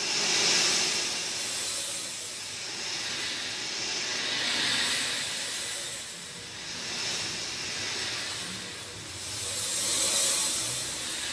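Rain falling steadily, a dense hissing wash that swells and eases in slow waves every few seconds.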